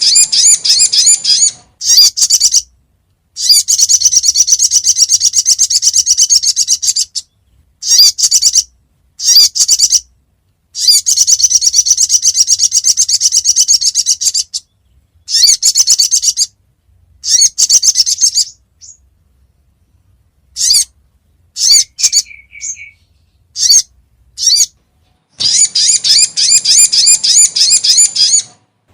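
Lure call of the sogon (sogok ontong) bird, of the kind played to draw wild birds down: rapid high-pitched chattering trills come in bursts of one to four seconds with short silent gaps between them. A few scattered single chirps fall in the middle before the long trills start again near the end.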